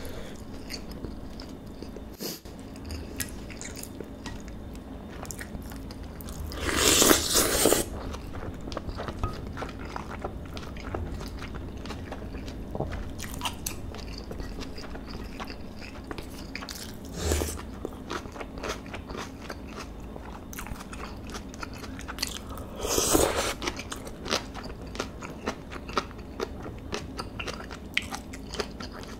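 Close-miked mouth sounds of someone eating marinated beef bulgogi with vegetables and rice: steady wet chewing and crunching clicks. Three louder bursts come about a quarter of the way in, near the middle, and about three-quarters through; the first is the loudest.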